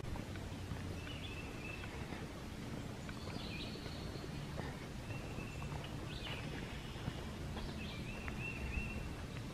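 Birds calling: a scattering of high, thin whistled notes, several held for about half a second and some ending in a quick upward flick, over a low steady outdoor rumble.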